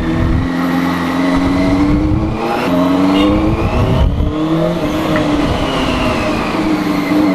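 Benelli 600i's inline-four engine under way, pulling up through the gears: its pitch climbs, drops at each shift, then climbs again several times.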